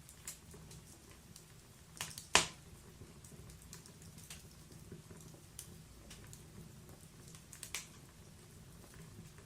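Wood fire in a fireplace crackling: irregular sharp pops and snaps over a low, steady rumble of the flames, the loudest pop a little over two seconds in and another small cluster about three-quarters of the way through.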